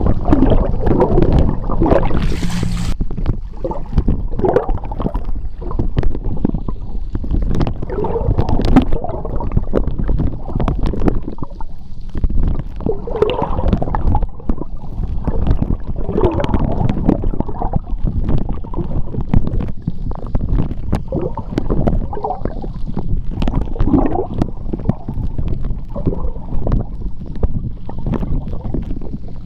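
Underwater sound of a sea strait, picked up on a waterproof phone held in the water: a constant low rumble of moving water with irregular gurgles and small clicks from bubbles. A brief hiss comes about two seconds in.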